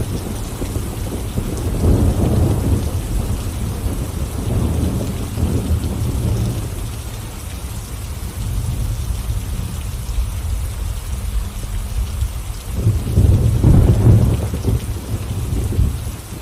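Thunderstorm: steady rain with rolling thunder rumbling underneath, swelling louder about two seconds in and again near the end.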